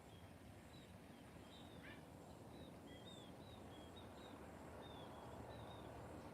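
Faint birdsong: a string of short, high chirps repeated every half second or so, with one quick falling note about two seconds in, over a low hush of open countryside.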